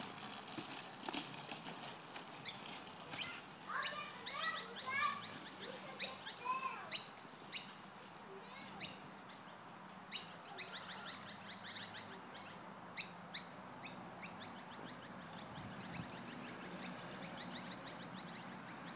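Birds chirping and calling: many short, sharp chirps scattered throughout, with some rising and falling whistled notes in the first several seconds.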